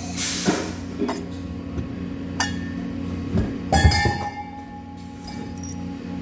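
Metal pieces clinking and knocking together, with one knock about halfway through ringing on as a clear tone for a couple of seconds, over a steady electrical hum.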